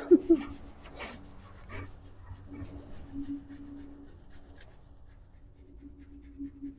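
A German shepherd gives a brief whine at the start, then soft rubbing and scratching as a hand strokes its fur.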